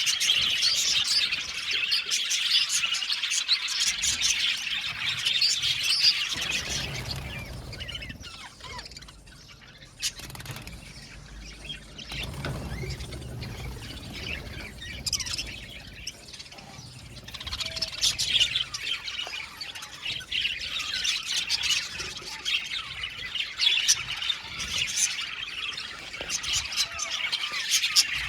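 A flock of budgerigars chattering and chirping together in a dense, busy warble. The chorus thins out after about seven seconds, when a low rumble comes in, and builds up again from about seventeen seconds on.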